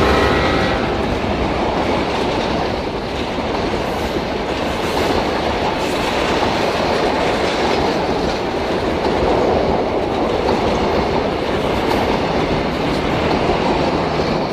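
Train running on the rails with a steady rumble and wheel clatter; a horn blast dies away in the first second.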